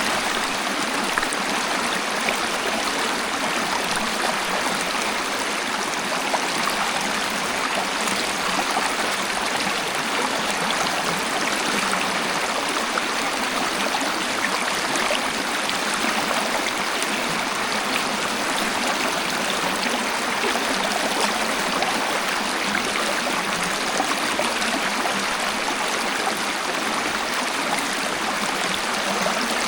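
Waterfall: falling water rushing steadily as an even, unbroken hiss, with now and then a small brief splash.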